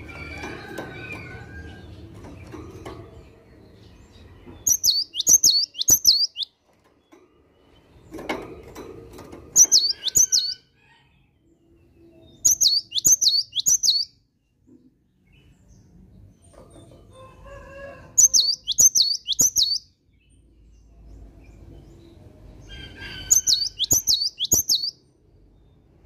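Cinereous tit (gelatik batu) singing. Five short phrases a few seconds apart, each of three or four quick, high, downslurred notes.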